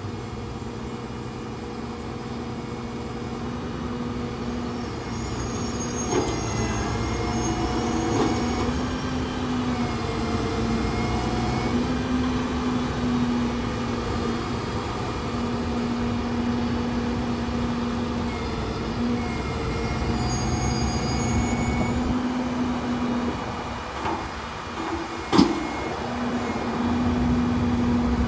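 Hino grapple truck running, with a steady hum that drops out and returns several times and fainter whines coming and going. A single sharp clack comes near the end.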